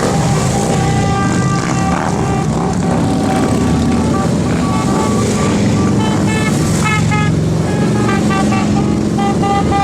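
Many motorcycle engines running together in a steady rumble, with short horn toots in the second half.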